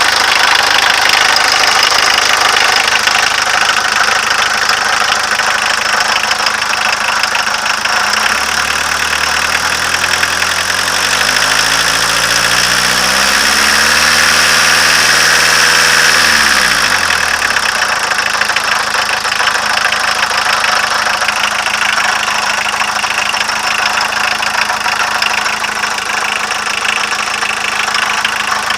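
A 1.6-litre diesel engine running with a knock. It idles, is revved up in steps for about eight seconds from roughly a third of the way in, then drops quickly back to idle.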